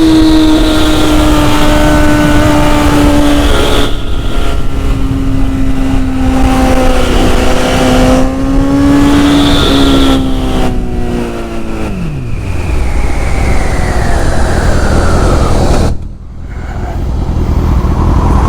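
Sportbike engine running at high revs at speed over heavy wind rush, shifting up twice, then the revs falling steeply about twelve seconds in as the throttle is closed, with a brief sudden drop in the sound near the end.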